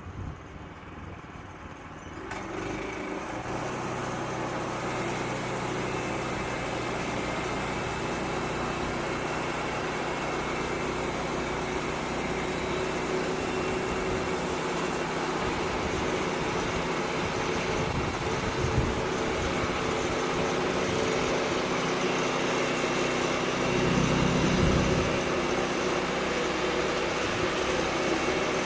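Sawmill's small engine running, rising in level about two seconds in and then running steadily.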